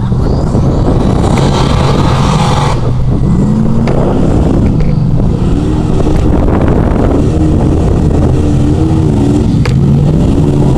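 Off-road 4x4's engine running hard in a mud bog, its pitch rising and falling as it is revved. A loud rush of noise comes over the engine for about the first three seconds.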